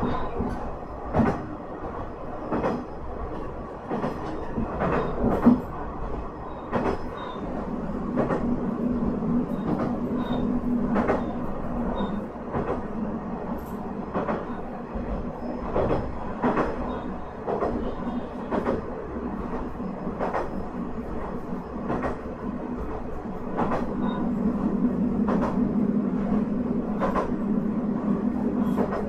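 Minami Aso Railway MT-4000 diesel railcar running, heard from inside the car. The wheels click over rail joints about every second and a half over a steady engine drone, which grows louder for a few seconds about a third of the way in and again near the end.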